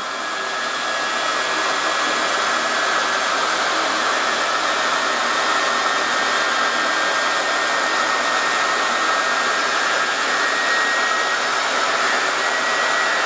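Brushed vacuum cleaner motor running steadily on reduced voltage, belt-driving a spinning ceiling fan at about 600 RPM: a loud, even whir with a thin high whine over it. The belt is running fine.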